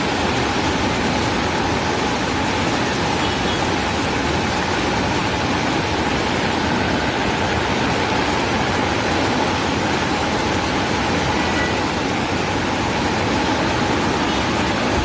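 Floodwater rushing in a swollen river: a loud, steady wash of noise with no breaks.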